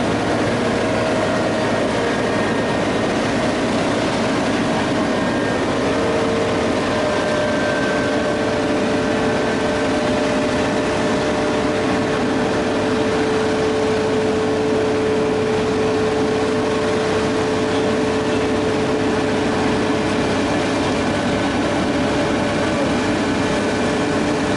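Heavy diesel machinery running steadily, a constant engine drone with a faint steady whine over it.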